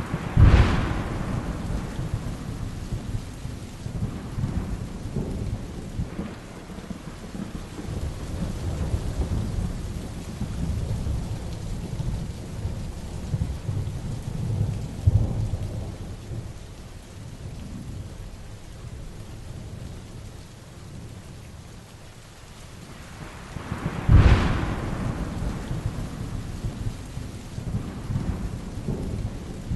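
Heavy rain falling steadily through a thunderstorm. A sharp thunderclap right at the start rolls off into long low rumbling, the rumble swells again about halfway, and a second sharp clap comes late on.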